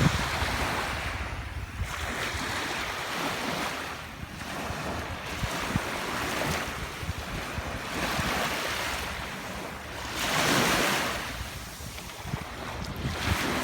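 Sea waves washing onto a sandy beach, one swell after another every couple of seconds; the loudest comes about ten seconds in. Wind buffets the microphone, adding a low rumble.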